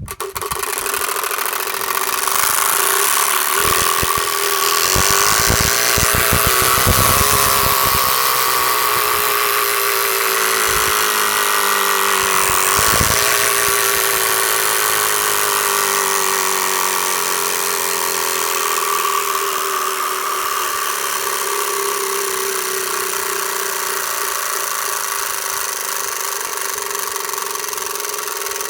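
An 18-year-old motorbike's engine running, its pitch rising and falling over roughly the first half, then holding steady.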